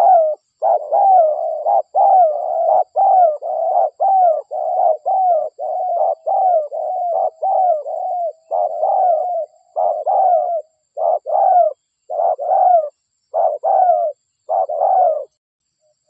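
Spotted dove (derkuku) cooing: a long, fast run of repeated coo notes, each with a falling tone, about two a second. The coos break off about a second before the end.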